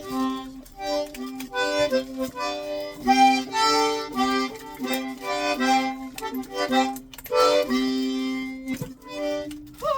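Accordion playing a simple tune of short held notes and chords, with the bellows sustaining each note.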